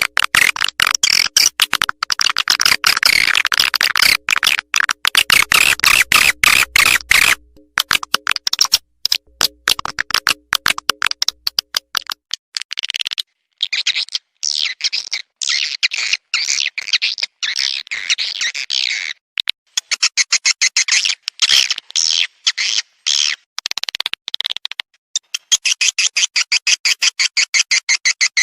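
Swiftlet lure call playback: rapid trains of dry, high chirps and clicks in bursts of several seconds, separated by brief breaks.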